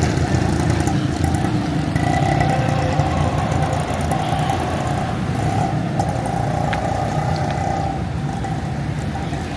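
Busy street traffic: motor vehicle engines running close by, a steady low rumble.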